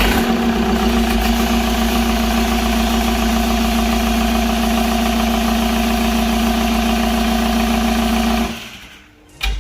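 Freshly rebuilt Citroen Relay 2.2 HDi (Ford 2.2 TDCi) four-cylinder turbodiesel idling steadily, then cutting off about eight and a half seconds in.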